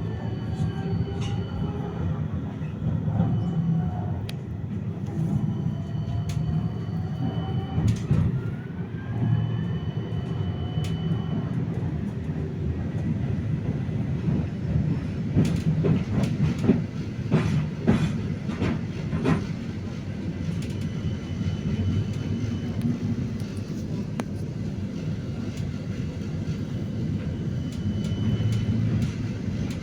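Vityaz-M 71-931M tram under way: the steady rumble of the running gear on the rails, with the whine of its IGBT traction drive gliding down and then up in pitch in the first third as the tram slows and pulls away. About halfway through comes a quick run of wheel knocks over rail joints.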